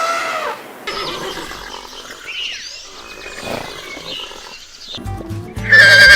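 A horse whinnies loudly near the end, a long, shaky, wavering call over background music that comes in about five seconds in. Before it there are quieter mixed animal calls and chirps.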